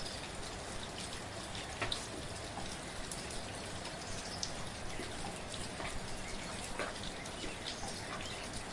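Steady light rain falling, a soft even hiss with many small scattered drop taps.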